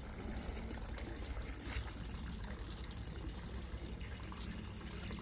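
Steady rush of water from Banyumala waterfall, heard as an even noise without distinct splashes, with a low rumble underneath.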